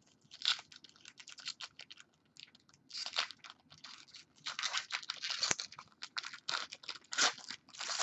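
A trading-card pack wrapper being torn open and crinkled in the hands, in irregular crackling bursts that are loudest about three seconds in and again in the middle.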